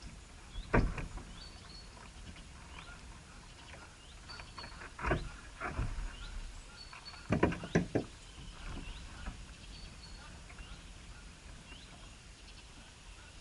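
Small birds chirping repeatedly with short, rising high calls, mixed with a brief higher note that recurs every couple of seconds. Several loud thumps break in, about a second in, twice around five to six seconds, and twice around seven to eight seconds.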